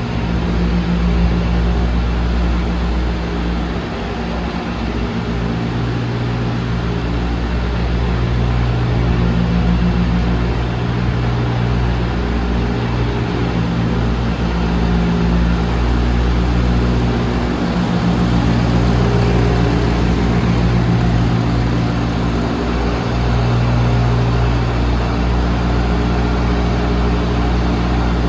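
DAF CF250 lorry's diesel engine idling steadily, a constant low hum that swells slightly now and then.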